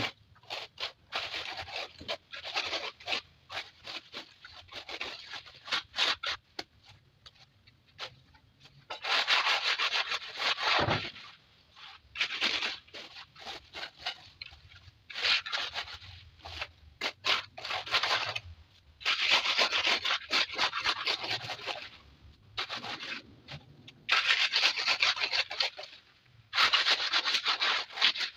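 Rough scraping and rubbing strokes on a hard, gritty surface, coming in runs of a second or two with short pauses between.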